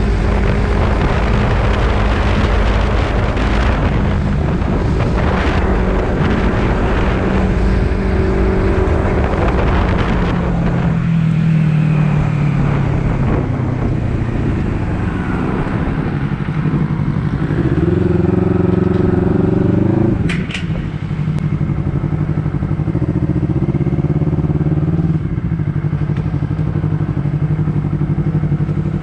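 Honda CBR250RR's parallel-twin engine running under way, loud with a lot of rushing noise at first, then a clearer engine note that rises and falls as the rider works the throttle, with a short dip about twenty seconds in.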